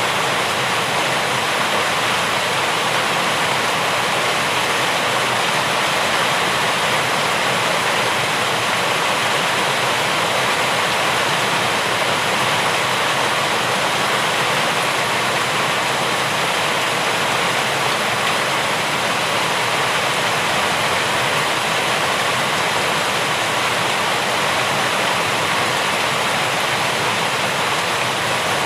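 Rain falling steadily, a dense even hiss that never changes, with no single drops standing out.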